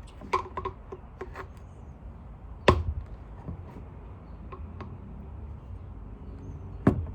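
Plastic parts of a Dyson vacuum cleaner being handled during disassembly: a few light clicks, then two sharp knocks about four seconds apart.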